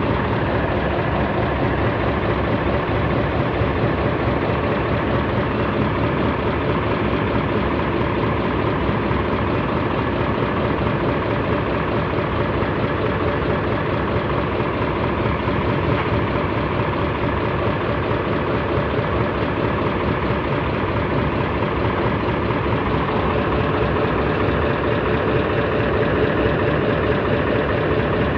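Heavy diesel engine running steadily at an even idle-like speed, with no revving.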